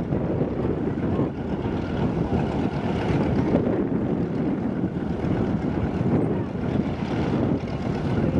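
Wind buffeting the microphone over a steady noisy background, with irregular gusts.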